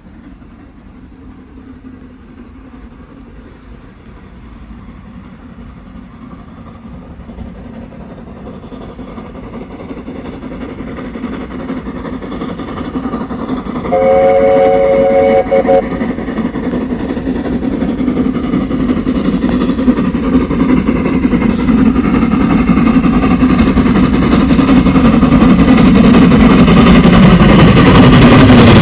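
Steam-hauled train approaching, its rumble growing steadily louder. About halfway it sounds its whistle once for about two seconds, and near the end it is close and loud as it comes past.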